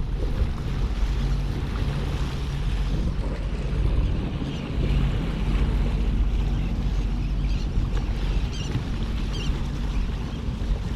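Wind buffeting the microphone over sea waves, with a low steady hum underneath and a few short high chirps in the second half.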